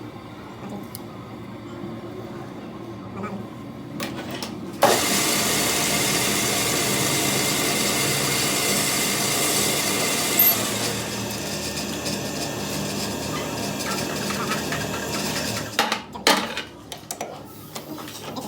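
A power tool starts suddenly about five seconds in, runs steadily for about eleven seconds with a slight drop in level partway, then stops, followed by a few metallic knocks and clinks.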